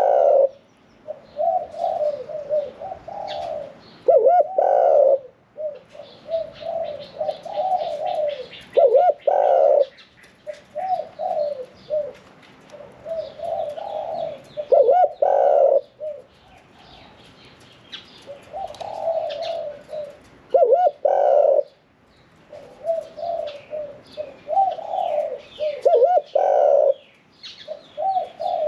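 Spotted dove cooing its crowing song over and over, one phrase about every five to six seconds, each ending on a louder, fuller coo. It is a 'khan yon nueng kuk' crower (a thrown crow ending with one kuk note) with a medium-pitched voice.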